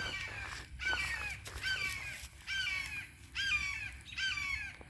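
A large bird giving a series of loud, harsh calls, about one a second, each a short call that rises, holds and drops.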